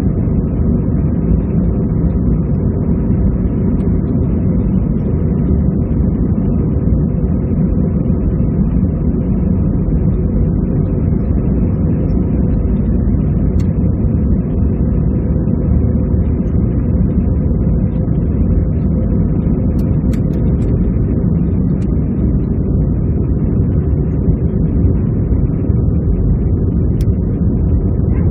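Steady cabin noise inside an Airbus A320-214 airliner: a constant low rush of engine and airflow with a faint hum running through it.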